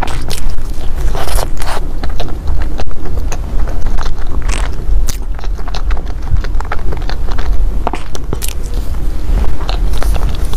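Close-miked biting and chewing of a fried golden pastry, with many sharp crunching crackles throughout.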